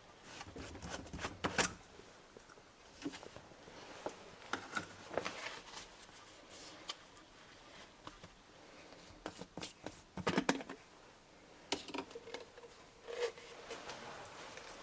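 Irregular clicks, taps and light knocks of close handling, with a denser cluster about ten seconds in and a short low tone about thirteen seconds in.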